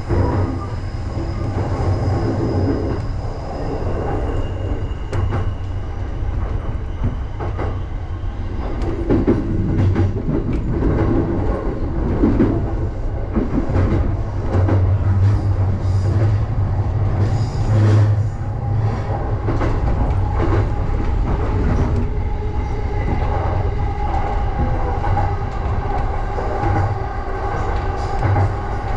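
JR Joban Line electric commuter train running, heard from inside the front car: a steady low rumble, with many clicks and clacks of the wheels over rail joints and points through the middle stretch. A thin steady whine comes in during the second half.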